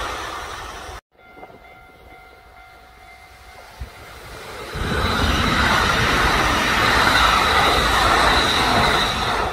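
Kintetsu electric train passing at speed: loud rushing rail noise that rises sharply about five seconds in and stays loud, with a steady high whine over it. Before that, the tail of an earlier passing train fades and cuts off abruptly about a second in.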